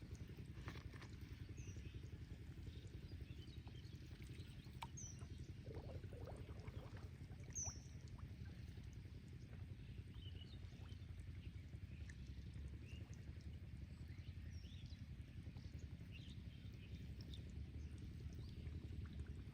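Faint outdoor ambience: a steady low rumble with scattered faint, short high chirps and clicks, one slightly louder chirp about halfway through.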